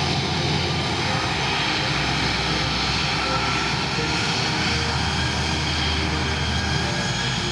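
Boeing 767 jet engines at takeoff power: a steady loud rush with a faint whine that slowly rises in pitch in the second half.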